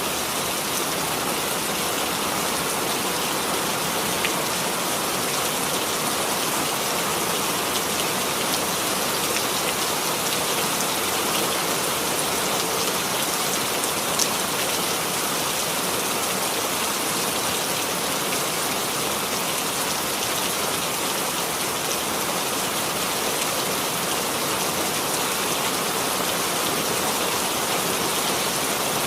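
Steady rainfall pattering on a surface, an even hiss of rain with occasional sharper drop ticks.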